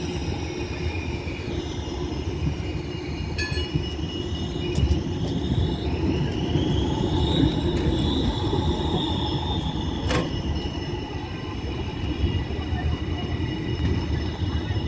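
A tram running past: a steady low rumble with high whining tones that glide down and then rise and fall again, and two sharp clicks about a third of the way in and again about two-thirds of the way in.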